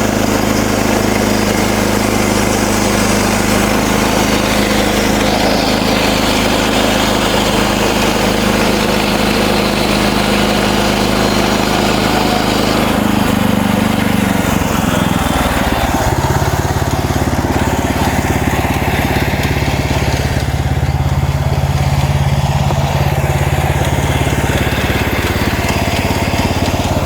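MechMaxx SM32 bandsaw sawmill running, its engine driving the band blade through a cedar log. The engine's note changes between about 13 and 16 seconds in, and the hissy upper part of the sound drops away at about the same time.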